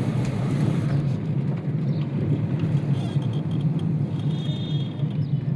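A vehicle's engine running steadily on the move, with road and wind noise.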